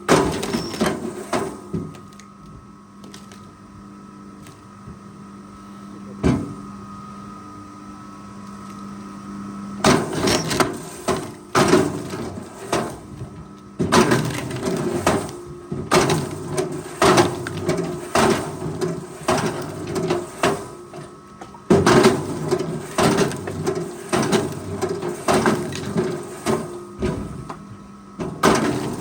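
Forest machine running with a steady engine hum, quieter for several seconds near the start, then a rapid, irregular run of heavy knocks and cracks as it handles wood.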